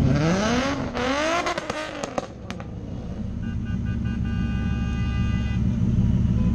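A car engine revs hard, its pitch climbing over the first second and holding. Sharp cracks follow as it comes off the throttle. Engines then idle low, while a steady high tone holds for about two seconds.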